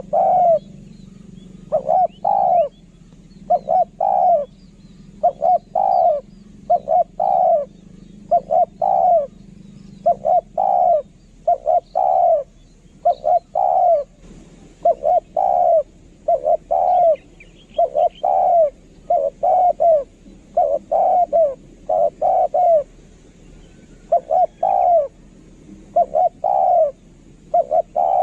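Spotted dove cooing over and over, its short arching coos coming in quick runs of two to four notes with brief pauses between runs, in the pattern used as a decoy call for male doves. Faint chirps of small birds sound behind it, and a low steady hum fades out about ten seconds in.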